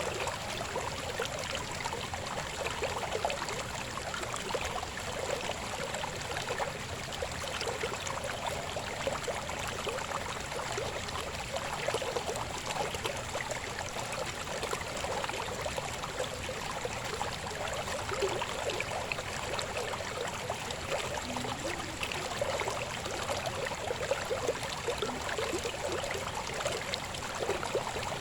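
A shallow river babbling and gurgling over stones: a steady water rush with many small splashes.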